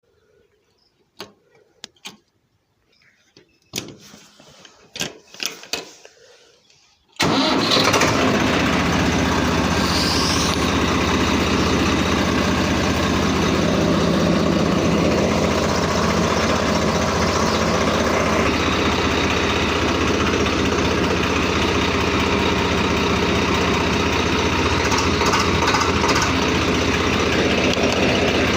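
Swaraj 855 tractor's three-cylinder diesel engine: after a few sharp clicks and knocks, it starts abruptly about seven seconds in and then runs steadily.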